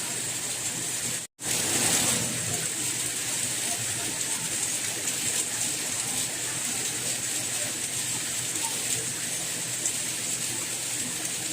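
Steady soft rain, an even hiss with no distinct drops standing out. About a second in it cuts out for a moment, then comes straight back, briefly a little louder.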